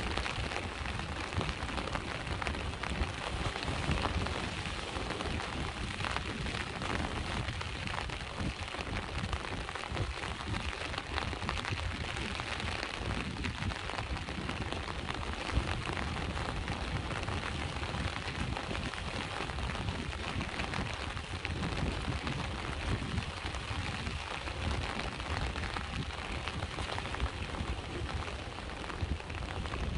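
Steady rain with a dense patter of drops, over a low rumble of sea waves on the shore.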